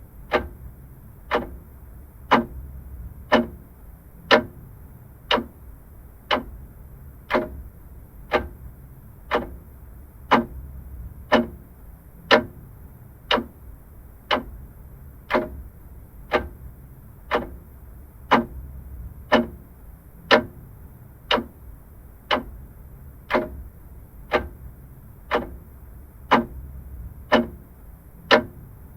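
Vintage clock ticking steadily, about one tick a second.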